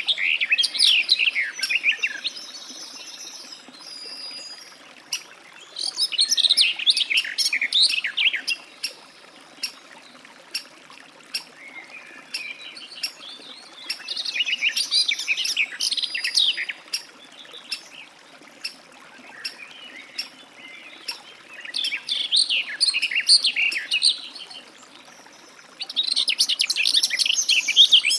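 Garden warbler singing: five rich, rapid warbling phrases of two to three seconds each, a few seconds apart, with short sharp chirps in the pauses between them.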